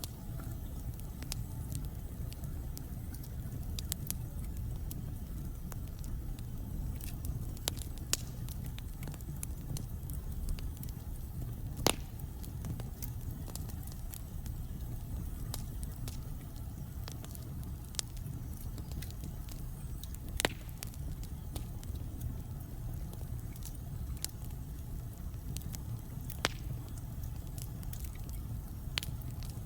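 Wood logs burning in a fireplace: a steady low rumble with scattered crackles and sharp pops, the loudest pops about 12 and 20 seconds in.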